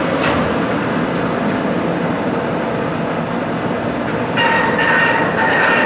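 Metal-cutting machine tool running under cut: a loud, steady mechanical noise. About four and a half seconds in, a high squealing tone joins it.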